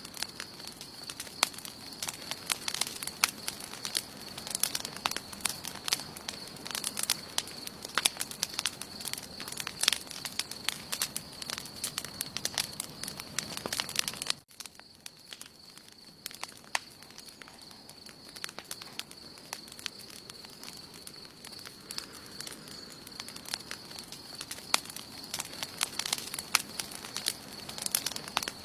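Campfire crackling with frequent sharp pops over a low rush of burning wood, and a steady high tone underneath. About halfway through the sound breaks off abruptly and resumes quieter, with fewer pops.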